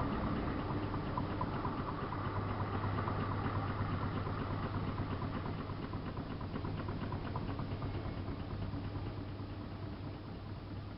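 Miele Softtronic W3657 front-loading washing machine running: a steady low hum with water gurgling and a fast, even ticking. It sets in abruptly just before and slowly gets quieter.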